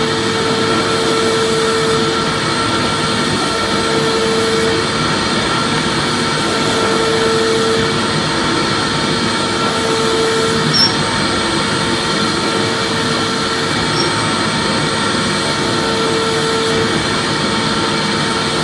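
Vacuum cleaner running steadily: a continuous rushing noise with a low hum that comes and goes every few seconds.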